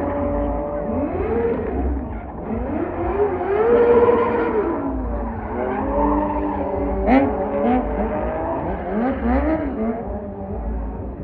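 Car engine revving up and falling back again and again, with tyres squealing and skidding.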